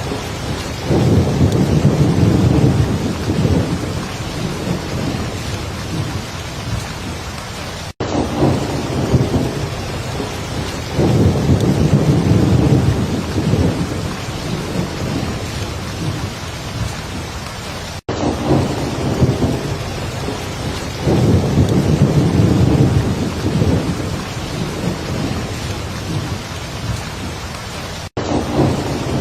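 Heavy, steady rain with a low rumble of thunder swelling up about every ten seconds, three times. The rain drops out for a split second at regular intervals, a sign of a repeating loop.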